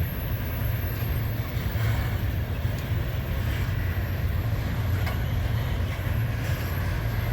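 Freight train cars rolling past, a steady low rumble of wheels on rail with a few faint clicks.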